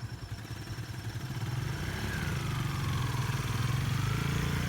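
Motorcycle engine running with a steady low throb, growing gradually louder. A faint thin tone glides up and down in the background.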